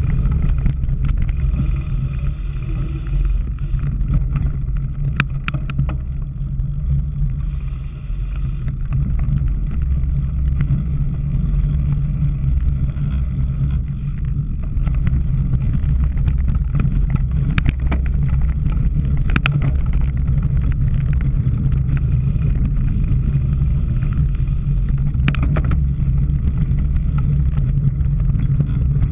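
Steady low rumble of wind and riding noise buffeting a camera microphone on a cyclocross bike, with a few sharp clicks and knocks, such as over bumps, about five seconds in and again near 18, 20 and 26 seconds.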